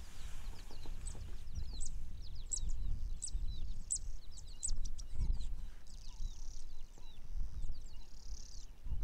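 Small birds calling with many quick, high chirps that drop in pitch, over an uneven low rumble that swells about halfway through.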